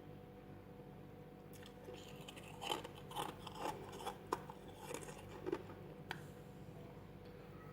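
Freezer frost being chewed: a run of short, crisp crunches in the middle few seconds after a quieter start, over a steady low hum.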